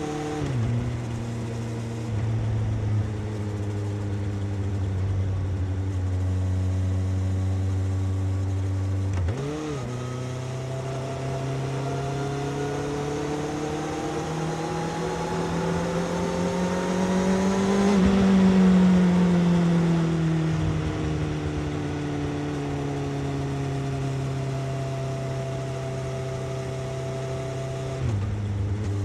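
Suzuki GSX-S750's inline-four engine and exhaust under way. Its pitch drops sharply at a gear change about nine seconds in, then climbs steadily for about eight seconds as it accelerates, peaking at its loudest, and falls away slowly over the next ten seconds as the throttle is eased off.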